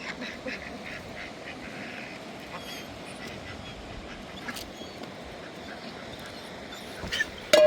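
Fowl calling in short quacking calls over a steady rushing noise, with a loud sharp call or knock near the end.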